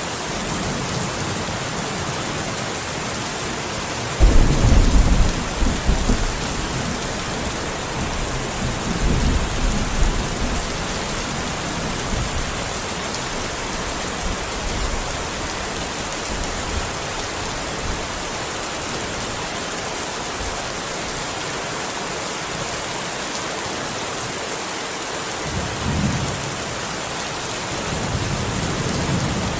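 Steady rain hissing, with thunder: a loud clap about four seconds in that rumbles on for a couple of seconds, a second rumble around nine seconds, and softer rumbles near the end.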